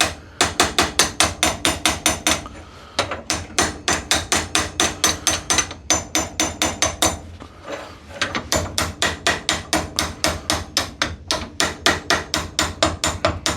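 Hammer rapidly tapping a rusted, seized Record G clamp, about five or six sharp metallic strikes a second, to break the rust inside its screw thread. The tapping comes in three runs, with two short pauses.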